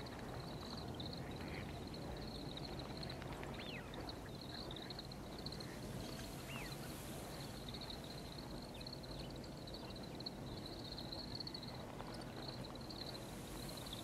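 Small songbirds twittering steadily in a high, wavering chatter, with a few short whistled call notes that sweep in pitch, over a steady low rumble.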